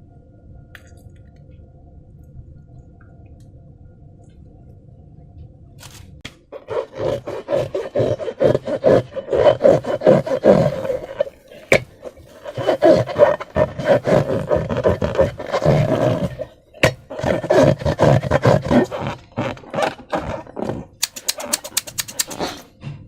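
Faint steady hum at first, then slime squeezed and stretched by hand: a long run of wet, crackly squelching pulses with short pauses, and a quick run of sharp clicks near the end.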